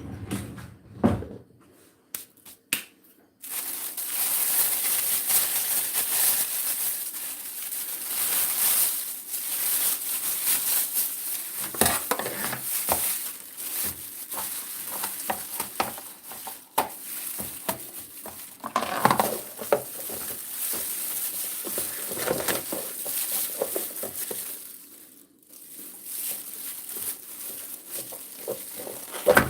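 Shredded chicken frying in a pan, a steady sizzle with a spatula scraping and stirring through it. A few knocks of utensils come first, then the sizzle sets in a few seconds in.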